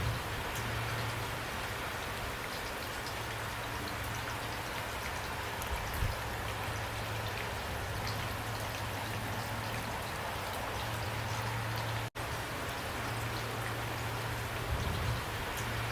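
Steady rain falling, a dense even patter of drops with a low rumble underneath and an occasional soft thump. The sound cuts out for an instant about twelve seconds in.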